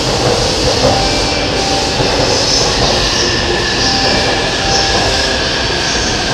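Electric commuter train running slowly past the platform close by: a steady rail rumble with faint whines that come and go.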